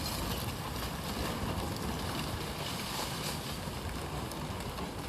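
Steady rushing noise of a flooded, fast-flowing river, with wind buffeting the microphone.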